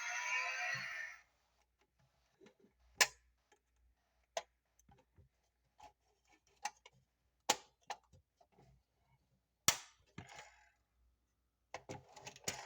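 Music that cuts off about a second in, then a series of sharp, irregular clicks and snaps, about a dozen, from the 1:24 Mercedes-Benz Sprinter model van being handled.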